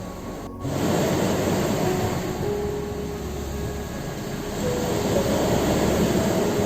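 Ocean surf breaking on a shore: a steady rushing wash of waves. It rises sharply just under a second in and swells again after about five seconds.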